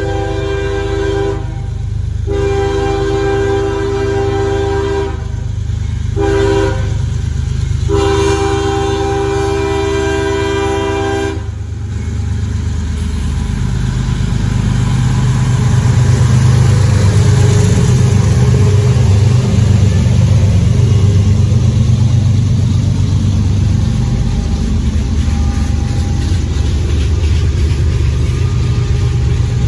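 CSX freight diesel locomotive's multi-chime air horn sounding the grade-crossing pattern: long, long, short, long, the last blast ending about eleven seconds in. Then the locomotives' diesel engines run loudly in a low rumble as the train passes.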